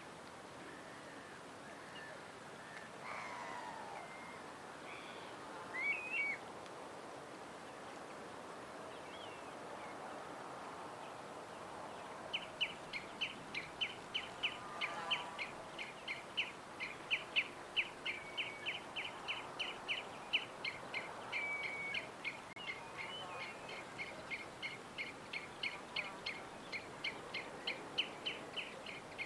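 Wild birds chirping over a faint outdoor background hiss, with scattered short calls and a louder brief call about six seconds in. From about twelve seconds in, one bird repeats a short high chirp steadily, about three or four times a second.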